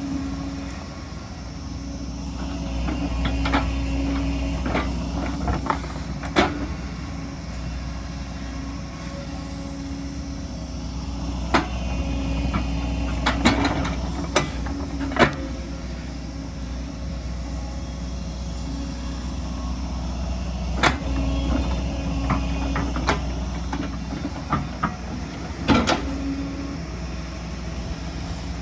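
Excavator's diesel engine running steadily under load, with scattered short, sharp clanks and knocks from the bucket working rock and soil.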